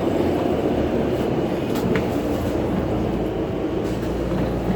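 Cabin noise inside a 2011 New Flyer C40LF compressed-natural-gas transit bus: a steady low rumble of the running bus, with a couple of light rattles about two seconds in.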